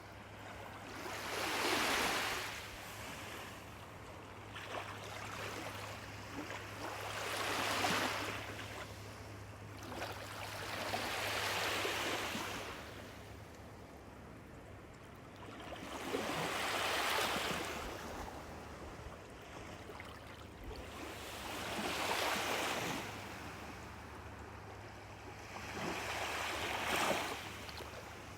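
Lake waves breaking and washing up on the shore, each one swelling and fading in turn, about every five to six seconds.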